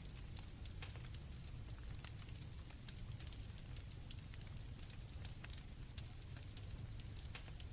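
Night campfire crackling with irregular sharp pops over a low rumble of the flames, with crickets trilling steadily and high-pitched.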